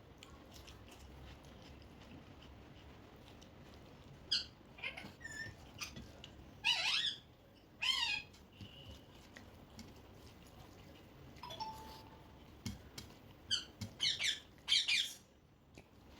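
Pet parrot giving short, sharp squawks and chirps in two clusters, one around the middle and one near the end, some calls sliding up in pitch.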